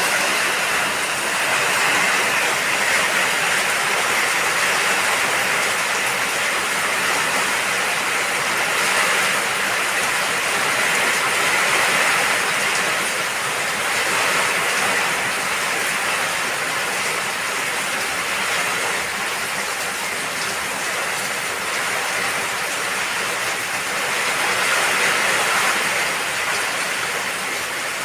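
Heavy rain falling steadily, a continuous hiss that swells and eases slightly over several seconds.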